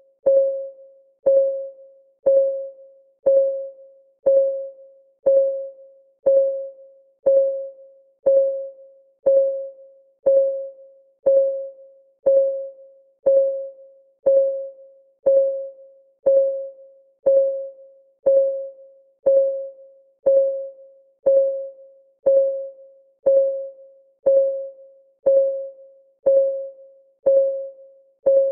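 Countdown timer's ticking sound: a short, pitched tick once every second, each a clear mid-pitched tone that strikes sharply and fades within about half a second, in a steady, unchanging rhythm.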